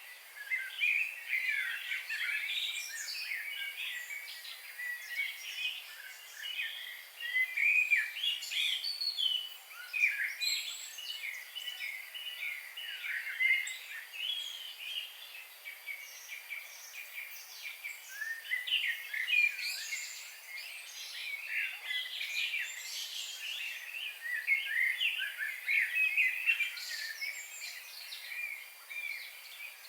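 A chorus of many small birds singing and chirping at once, with quick overlapping chirps and trills over a steady background hiss.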